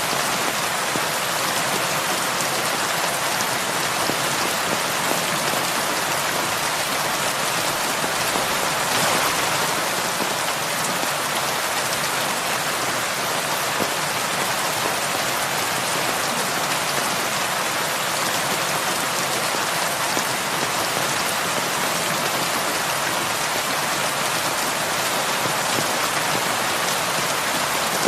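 Heavy rain falling steadily, a dense even hiss of drops on a surface with no thunder.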